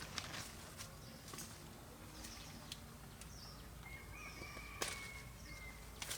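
Quiet rural outdoor ambience: birds chirp a few times, and a thin steady whistle is held for about two seconds near the end. Scattered light clicks and rustles run underneath.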